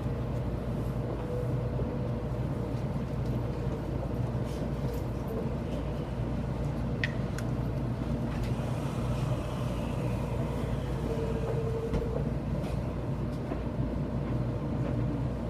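700 series Shinkansen train running, heard from inside a passenger car: a steady low rumble with faint whining tones that come and go, and one sharp click about seven seconds in.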